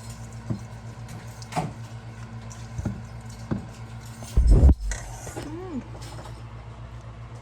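Kitchen handling sounds while seasoning: several light taps and knocks of containers and utensils, and one loud bump about four and a half seconds in, over a steady low hum.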